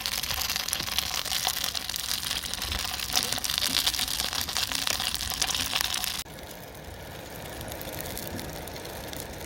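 Dense crackling and sizzling of a wood fire with food cooking over it. About six seconds in it cuts suddenly to a quieter, duller steady hiss.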